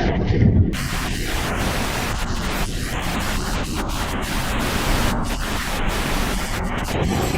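Steady, loud rushing of water, a dense even roar with a low rumble underneath.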